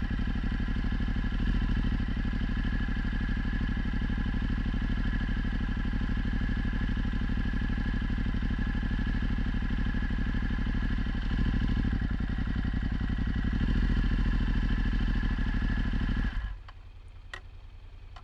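Ducati Multistrada 1260's V-twin engine with a Termignoni exhaust running at low, steady revs, with a few slight rises, then stopping abruptly near the end.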